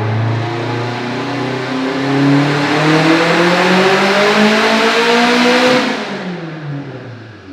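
Turbocharged 2007 Subaru STi flat-four with a 6266 turbo at full throttle on a chassis dyno, revs climbing steadily through a pull at about 26 psi of boost. About six seconds in the throttle closes, and the engine winds down with falling pitch.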